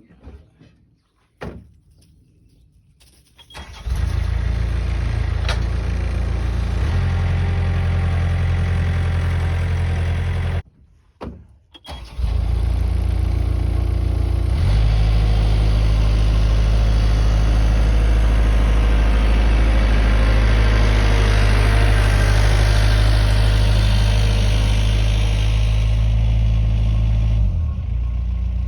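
A few clicks, then the 1968 Chevrolet K20 pickup's engine starts about three seconds in and runs at a steady idle. It cuts out for about a second and a half, then is running again, picking up in speed a few seconds later and settling lower near the end.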